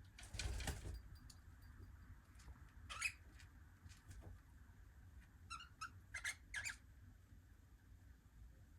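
Cockatiels giving short chirps: one at about three seconds in, then a quick run of four or five a little past the middle. A brief rustle just after the start, with scattered faint light clicks.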